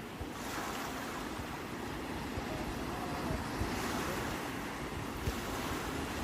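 Sea waves breaking and washing in as a steady hiss that swells about half a second in and again a few times after, with wind rumbling on the microphone.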